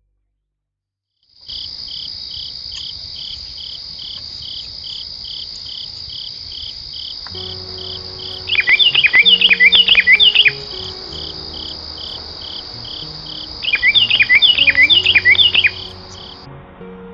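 Insect chorus of crickets: a steady high trill with a pulsing call about twice a second, starting after a second and a half of silence. Twice, a burst of quick, falling chirps rises loud over it, and faint low sustained notes join about halfway through.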